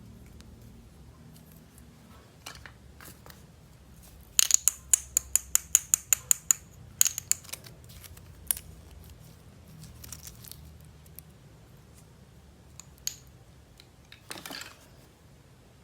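Toy packaging being opened and handled: a rapid run of about a dozen sharp clicks or snips, a few scattered clicks after, and a short scrape near the end.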